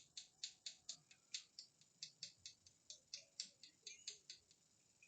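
A quick run of faint, light clicks or taps, about five a second, stopping about four and a half seconds in.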